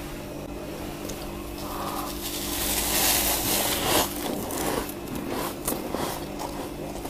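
Freezer frost being scraped: a rasping scrape that builds about two and a half seconds in and peaks around four seconds, then a run of short scratchy strokes, over a steady low hum.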